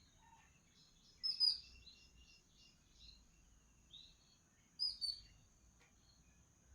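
Small birds chirping in short, falling, high-pitched calls, with two louder clusters of chirps, one about a second in and one about five seconds in, over a steady high-pitched hum.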